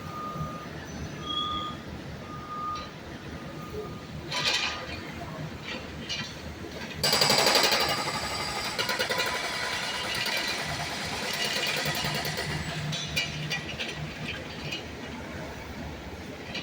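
Sidewalk reconstruction noise. A backup alarm beeps about once a second at first; then, about seven seconds in, a jackhammer starts abruptly, rattling rapidly for around six seconds before easing off. Engine and traffic rumble runs underneath.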